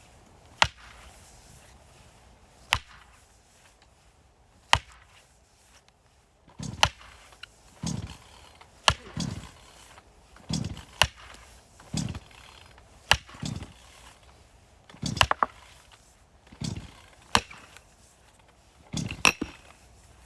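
Firewood being split by hand with an axe: three sharp single blows about two seconds apart, then from about seven seconds in a quicker run of blows, roughly one a second, several followed by a duller knock.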